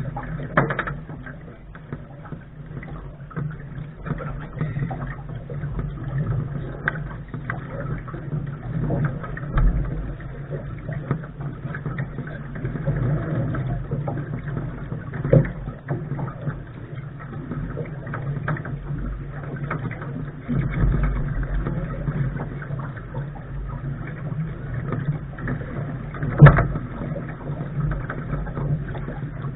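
Wind buffeting the microphone and water rushing past the hull of a Lark sailing dinghy under way, with a steady low hum and a few sharp knocks from the boat's gear, the loudest near the end.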